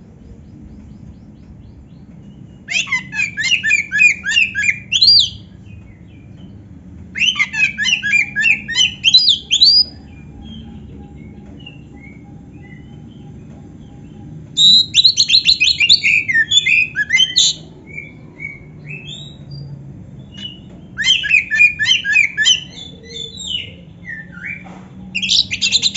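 Oriental magpie-robin (kacer) singing: five loud phrases of quick repeated chirping notes, each two to three seconds long, with pauses of a few seconds between them and a faint low hum underneath.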